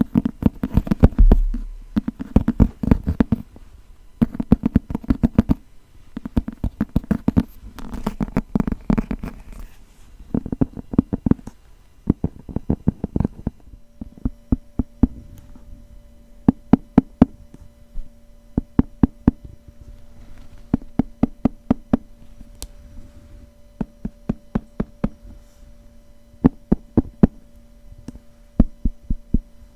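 Tapping on a grimoire-style book: fast, dense runs of taps for the first third, then slower, separate taps in small groups. A faint steady hum comes in about halfway.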